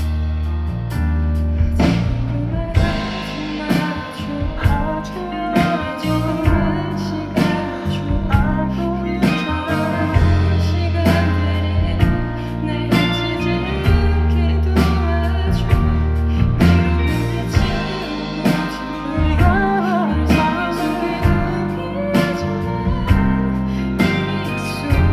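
Live pop band music: guitars over a steady bass line and drum beat, with a sung melody.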